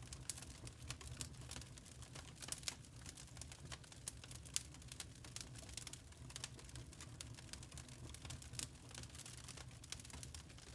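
Burning charcoal crackling: a dense, irregular run of small sharp pops and ticks, with a slightly louder pop about four and a half seconds in, over a steady low hum.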